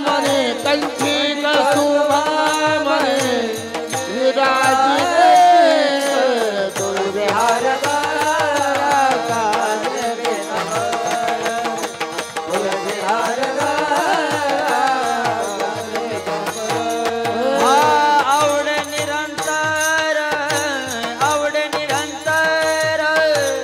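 Marathi devotional panchapadi bhajan: a male voice holds long, wavering sung notes over a steady drum beat.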